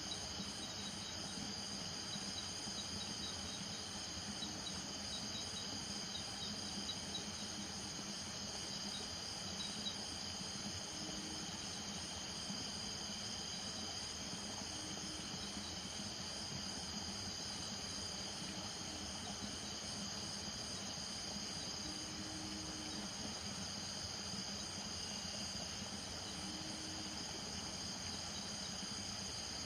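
Night chorus of crickets, a steady high-pitched trilling in several layers, with a frog giving short low calls every few seconds from about a third of the way in.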